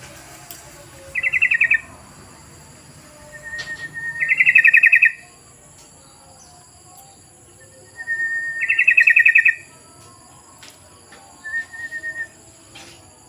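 Yellow-vented bulbul (trucukan) song: four short, rapid bubbling phrases, the two loudest about four and nine seconds in, each opened by a brief even note. A faint, steady high-pitched whine runs underneath.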